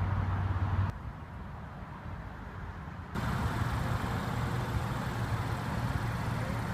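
Steady outdoor motor-vehicle noise with a low hum. It drops abruptly to a quieter hiss about a second in and comes back as louder vehicle noise about three seconds in.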